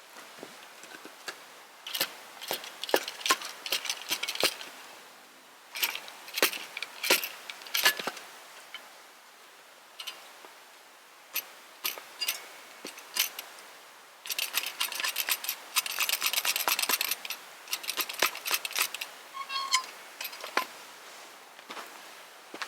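Irregular clicks, knocks and light metallic clinks of camp gear being handled, with a denser stretch of rattling about fourteen seconds in that lasts about three seconds.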